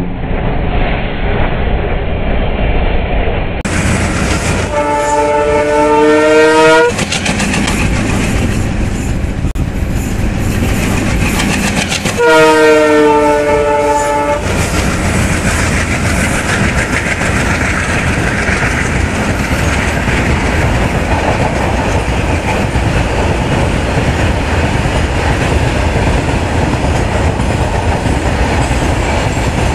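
Double-headed diesel locomotives pass close, engines working hard, with two loud horn blasts of several notes at once, each about two seconds long and about six seconds apart. After the horns, the rumble and clatter of tank wagons rolling past over the rail joints runs on steadily.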